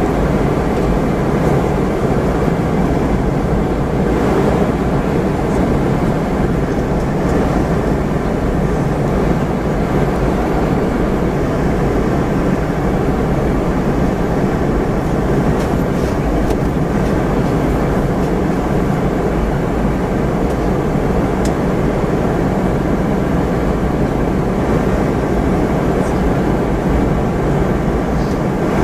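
Steady cabin noise inside a Boeing 717-200 in flight while descending toward landing: an even rush of airflow and its two rear-mounted turbofan engines, with a few faint ticks.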